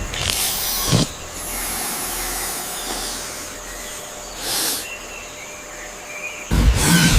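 Fight sound effects: a steady hiss with whooshing swells about a second in and around four and a half seconds in, then a heavy, loud thump near the end.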